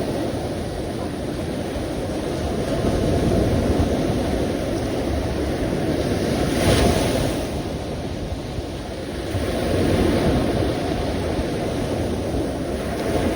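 Sea waves breaking on a shore: a steady surf rumble that swells and eases, with a brighter wash about halfway through.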